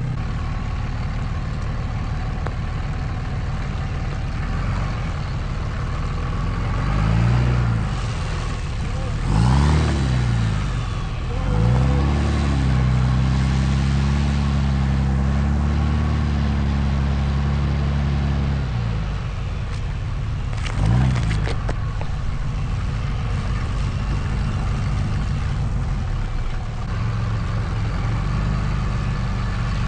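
Cummins diesel engine of a Ram 1500 pickup running and revving up and down several times as the truck works over the trail, held at higher revs for about six seconds in the middle before settling back to a steady run.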